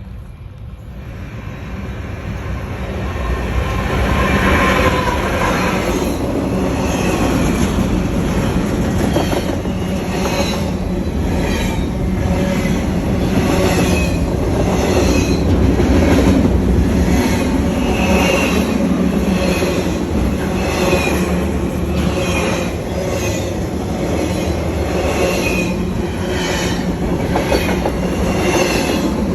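A train passing close by. It builds over the first few seconds into a loud, steady rumble, with the wheels clacking over the rail joints about once a second.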